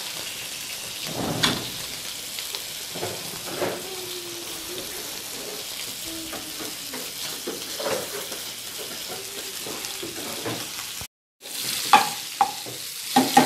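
Pork rib pieces steadily sizzling as they fry in oil and water, with a few short knocks and clicks as tomatillos are pushed around on the griddle beside them. The sound cuts out for a moment near the end.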